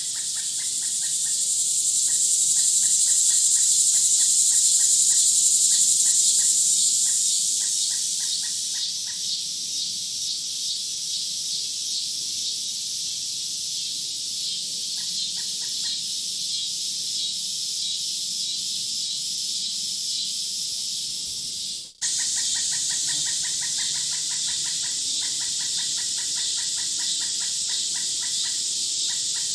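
Woodland nature ambience of insects and birds: a loud high insect buzz swells and fades over the first several seconds, over rapid, evenly pulsed calls that keep going. The whole sound drops out for an instant about 22 seconds in, then carries on.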